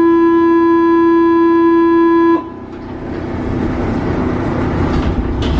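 A Paris Metro train's door-closing warning buzzer sounds loud and steady, then cuts off sharply about two and a half seconds in. The train's running noise then builds as it pulls away, with a brief knock near the end.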